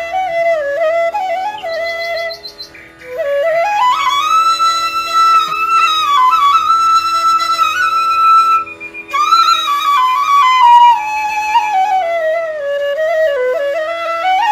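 Background music: a solo flute melody that slides and bends between notes, played over a steady held drone note. The melody breaks off briefly twice, about three seconds in and again near the middle.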